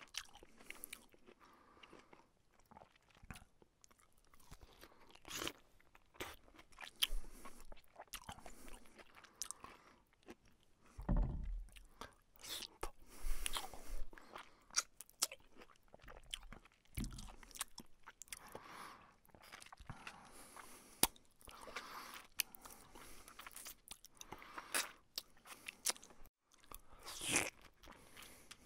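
Close-up sounds of a person chewing and crunching mouthfuls of rice and fried fish, with irregular wet mouth clicks and crackles.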